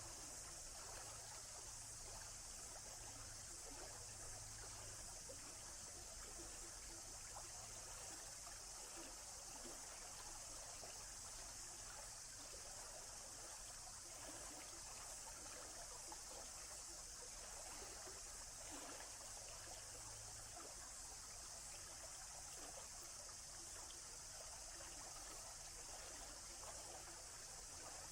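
Faint, steady trickling and flowing of a forest stream.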